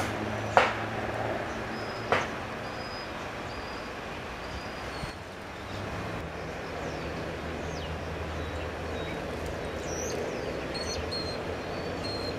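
Small birds calling with short, evenly repeated high notes and a few quick falling chirps, over a steady low rumble of distant traffic. Two sharp clicks stand out in the first two seconds.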